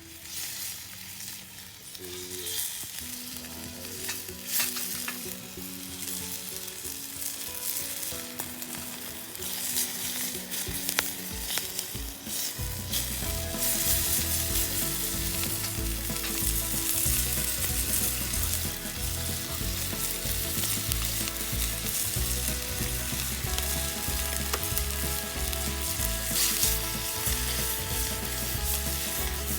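Food sizzling as it fries in a pan, a steady hiss, under background music whose bass line comes in about twelve seconds in.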